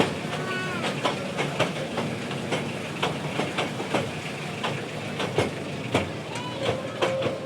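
Train running on its rails with a steady rumble, its wheels clicking and clattering irregularly over the track. A couple of short high squeaks come about half a second in and near the end.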